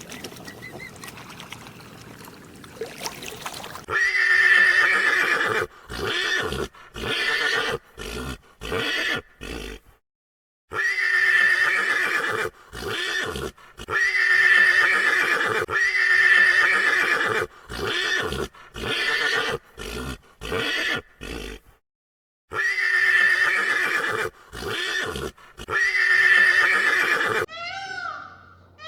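A large animal calling over and over: a rapid series of loud, pitched calls with abrupt breaks between them, starting about four seconds in after a stretch of faint background noise.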